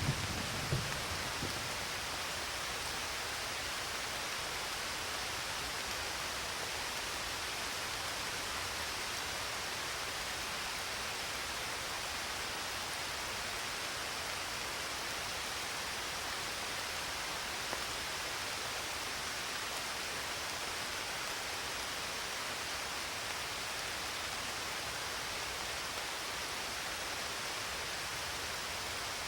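Steady rain, an even hiss with no separate drops standing out. The low rumble of a thunderclap dies away in the first second or so.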